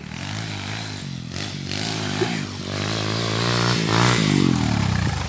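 Pit bike engine running hard at high, wavering revs, climbing through the middle, then cutting out near the end: the rider takes it for the motor blowing up.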